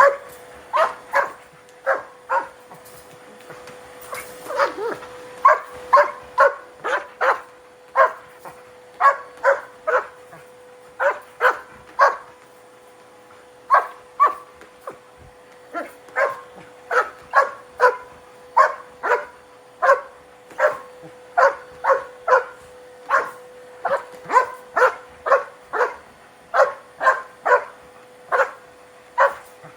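German Shepherd barking over and over in quick runs of short, sharp barks at a running vacuum cleaner, whose steady hum sounds underneath.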